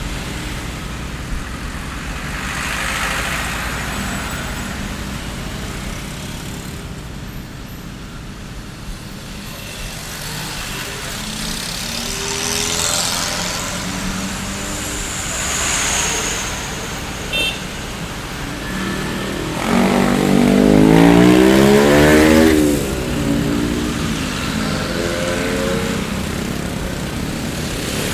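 Street traffic: a steady rumble of cars going by, with several vehicles swelling past. About two-thirds of the way through, one louder engine passes, its pitch rising and then falling as it accelerates by.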